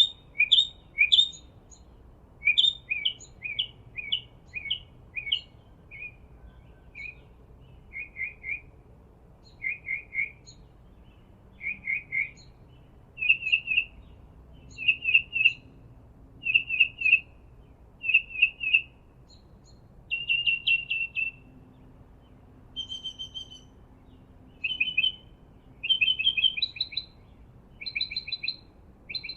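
A small bird chirping over and over: short high chirps, singly or in quick clusters, repeating every second or two.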